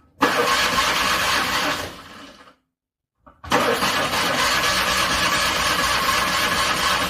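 Car engine cranking on its starter in the cold without catching, in two attempts. The first lasts about two seconds, then comes a pause and a longer try of about three and a half seconds, each stopping abruptly.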